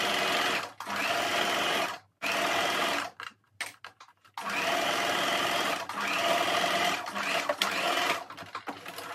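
Electric sewing machine stitching in several steady runs of a second or two each, stopping briefly between them. There is a longer pause of about a second and a half near the middle, with a few small clicks in it.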